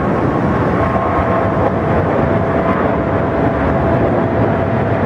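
Jet airliner engines running with a steady noise and a thin, steady whine.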